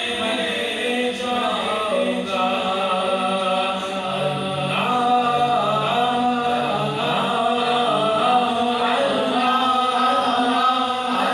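Naat sung without instruments: male voice with layered vocal backing in held, drawn-out notes, processed with an echo effect.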